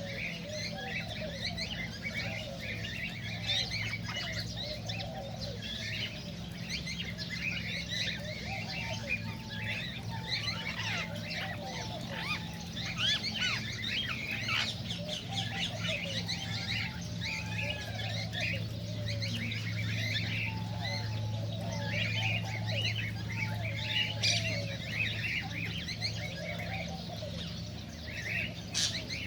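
Several cockatiels chirping and whistling at once in a constant, overlapping chatter of short calls. A steady low hum runs underneath and grows louder in the second half.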